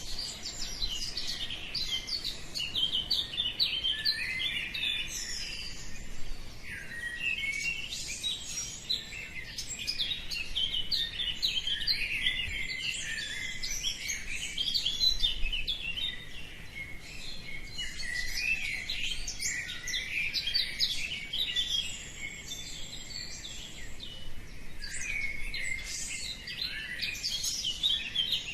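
Many songbirds singing and chirping at once in a dawn chorus: a dense, continuous tangle of overlapping high chirps and warbles.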